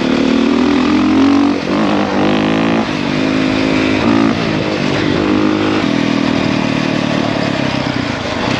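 450 dirt bike engine running under way, its pitch rising and falling several times as the rider works the throttle.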